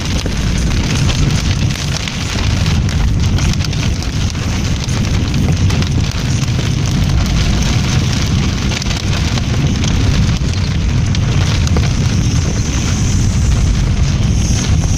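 Large hailstones drumming thick and unbroken on a car's roof and windscreen, heard inside the cabin, with a steady low rumble underneath.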